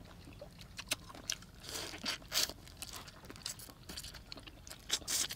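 Eating sounds: crunching and chewing of steamed giant river prawns and glass noodles, as an irregular scatter of short crackles and clicks, busiest about two seconds in.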